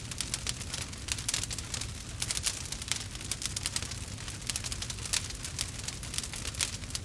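Wood fire crackling: many quick irregular pops and snaps over a low steady rumble.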